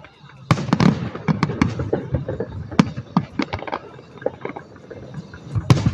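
Fireworks going off: a rapid volley of bangs and crackles about half a second in, then scattered pops, and another loud cluster of bangs near the end.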